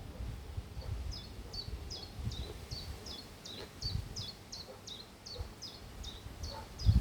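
A rapid, steady series of short, high chirps, each sliding down in pitch, about four a second, starting about a second in: a small bird calling over and over. A low, uneven rumble runs underneath.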